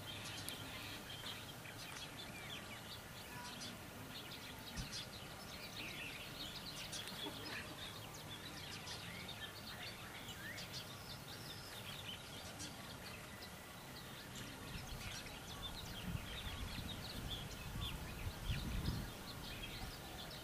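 Birds chirping and calling over steady outdoor background noise, with a few low rumbles near the end.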